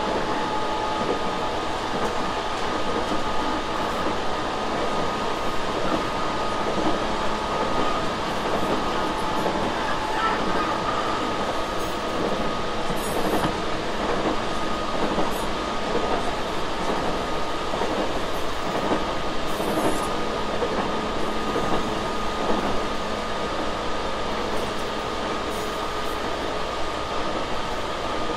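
Running noise of a Tobu 6050 series electric train heard inside the carriage, at an even speed: steady wheel-on-rail noise with a constant hum underneath.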